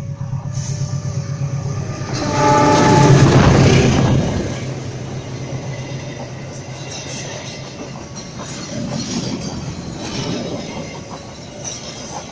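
A passenger train hauled by a CC 206 diesel-electric locomotive passes close by. The locomotive's engine drone builds, and its horn sounds for about two seconds starting about two seconds in as it goes past, the loudest part. Then the carriages roll by, their wheels clacking over the rail joints.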